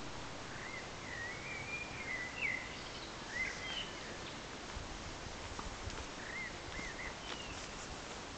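Small birds giving short chirping calls over steady outdoor background noise, in a run of calls during the first half and another brief run about six to seven seconds in.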